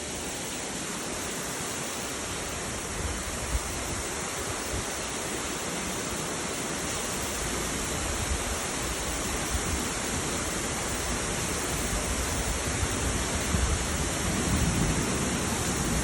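Heavy rain pouring down steadily in a thunderstorm, a dense even hiss that slowly grows louder, with more low rumble toward the end.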